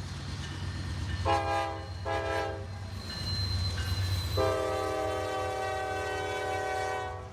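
Locomotive air horn sounding a chord: two short blasts, then a long held blast from a little past halfway, over a steady low rumble.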